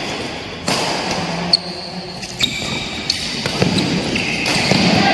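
Badminton being played in an indoor hall: a quick series of sharp racket hits on the shuttlecock over a steady hall background.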